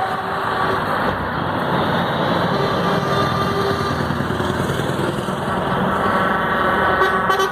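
Lorry convoy driving past, a steady wash of diesel engines and tyre noise. A truck's air horn sounds faintly a few seconds in, then another horn blast swells in near the end.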